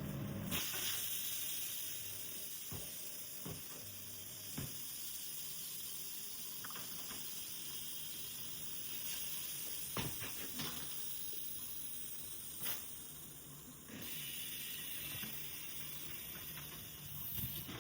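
Steady hiss of compressed air, as from a tire-shop air line, with a few short knocks. The hiss grows brighter about 14 seconds in.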